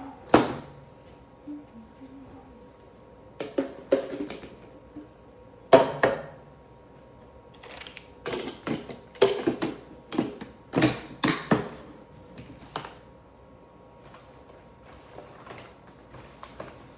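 Irregular clattering: a series of sharp knocks and clicks from objects being handled and set down, bunched into a busy run in the middle and fading to lighter taps near the end.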